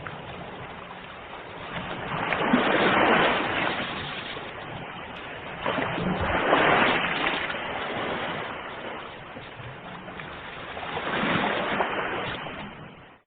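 Ocean waves breaking on a shore, three waves swelling and falling back a few seconds apart; the sound cuts off suddenly near the end.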